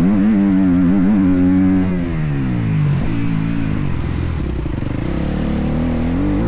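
Motocross bike engine running hard with a wavering pitch as the throttle works over the track. The revs fall about two seconds in as the throttle is rolled off, stay low, then climb again near the end.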